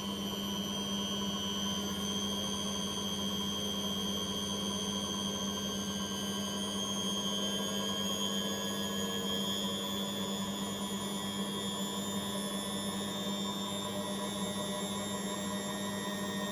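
Household appliance running steadily: a low hum with higher whining tones that rise slowly in pitch, likely from its motor.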